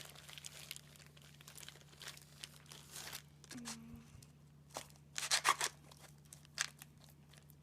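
Hands patting and pressing damp sand mix around a plastic volcano base tray: scattered crinkly rustles and crunches, with a louder cluster a little past halfway.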